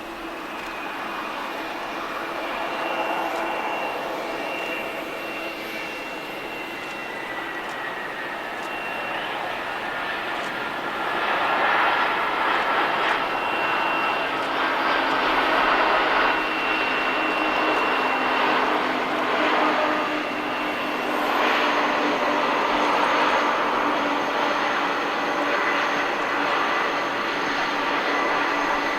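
Boeing 747-400 freighter's four jet engines on landing: a broad rushing jet noise with high, steady whining tones, one sliding slightly lower in pitch early on, growing louder about ten seconds in and staying loud.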